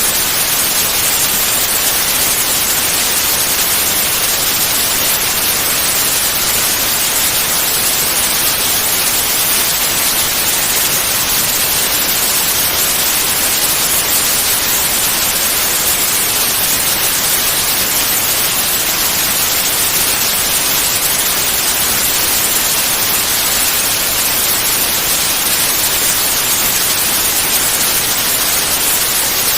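Steady, unchanging white noise, a hiss with the most energy in the high frequencies, played as a sleep sound for babies.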